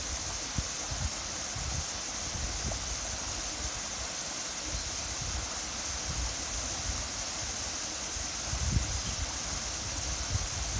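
Waterfall: a steady rush of falling water, even throughout. Brief low rumbles on the microphone come near the start and again about three-quarters of the way through.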